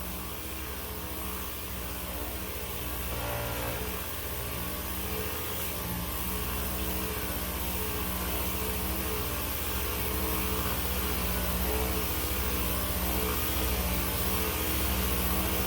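Power sander running steadily while back sanding the paint around a small dent repair on a car body panel, its pitch wavering a little as it is worked across the panel.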